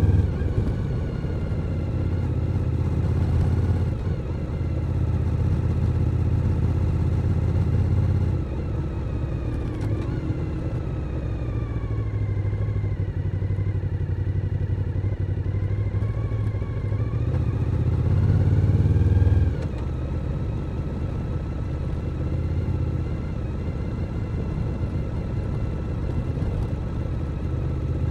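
Suzuki SV1000N's 90-degree V-twin engine running on the road. It holds a steady note, dips in pitch about ten seconds in, climbs again, then drops abruptly a little before the twenty-second mark.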